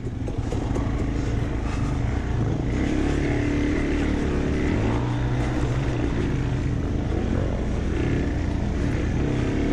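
Dirt bike engine running under way on a trail, its pitch rising and falling as the throttle changes.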